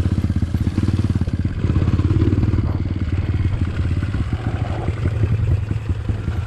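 Trail motorcycle engine running steadily, a rapid even beat of firing pulses.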